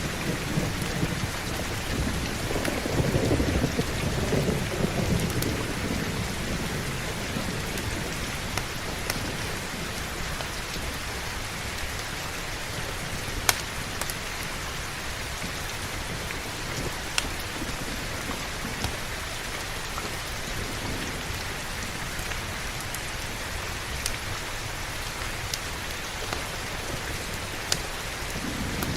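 Steady heavy rain with a low thunder rumble that fades out over the first several seconds. A few sharp single clicks stand out about halfway through and near the end.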